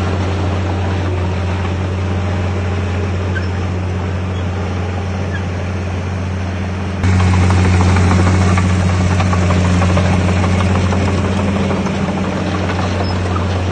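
Bulldozer's diesel engine running steadily with a deep, even hum. About seven seconds in the sound jumps abruptly to a louder level.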